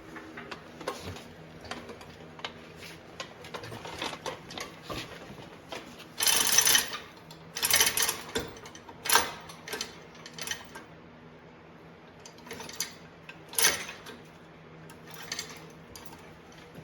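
Hand tools and steel transmission parts clinking and clattering, a run of light metallic ticks with several louder rattling clanks, the longest about a third of the way in.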